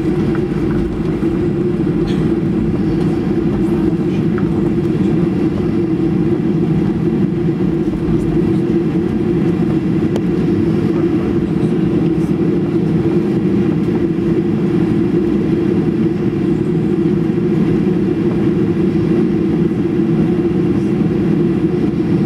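Boeing 737's CFM56 jet engines running steadily at low power as the plane taxis, a constant low drone heard from inside the passenger cabin.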